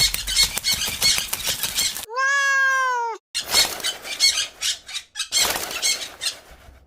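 Rapid fluttering like bird wings flapping, broken about two seconds in by one long call that rises and falls, lasting about a second, then more flapping.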